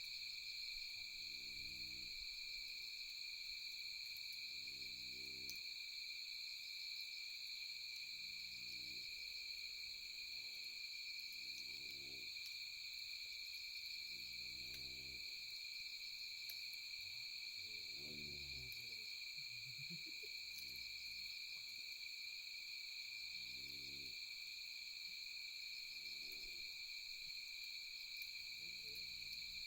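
Night chorus of insects trilling steadily, with a low hooting animal call repeated about every two seconds throughout, and a few faint crackles.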